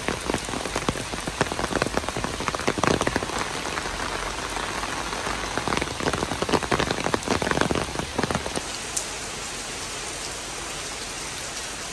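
Rain falling steadily, a dense patter of drops striking wet ground. About two-thirds of the way in, the patter gives way to a smoother, even hiss.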